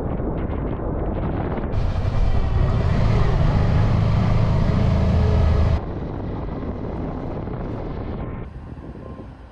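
Honda Deauville V-twin motorcycle running on the road, with wind rushing over the microphone. The engine and wind get louder for about four seconds in the middle, then settle back and ease off near the end.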